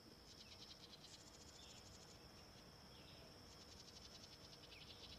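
Faint insect chirping: a steady high-pitched whine with bouts of rapid pulsed trills, cricket-like.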